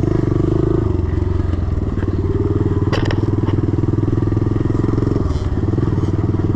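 Small 110cc four-stroke single-cylinder pit bike engine running hard as it is ridden, its note easing and picking up again about one second in and again around five seconds in as the throttle changes. A sharp clack sounds about three seconds in.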